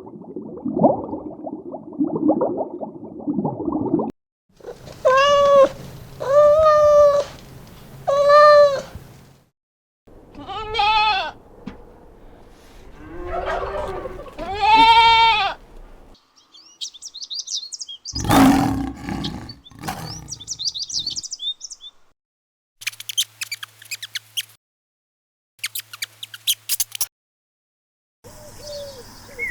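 A string of different animal calls, one after another. It opens with a rough, low growling noise. Next come three pitched calls, each rising then falling, and a few more drawn-out calls of the same kind. It ends with high chirps and short runs of clicks.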